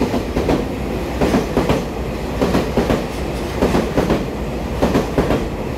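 Twelve-car EMU3000 electric multiple unit train rolling along the platform, its wheels clacking over rail joints in a quick, uneven rhythm over a steady rumble.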